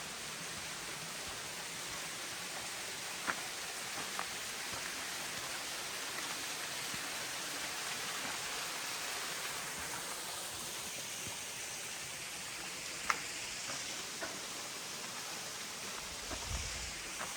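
Steady rushing of a stream of running water, with a few sharp clicks and a brief low thump near the end.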